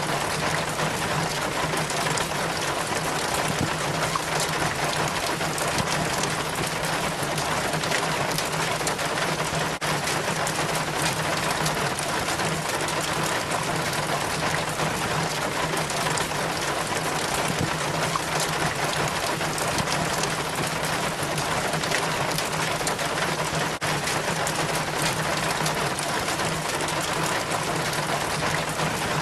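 Rainwater running down a rain chain, a steady dense trickling and splashing patter of many drips, with a steady low hum underneath.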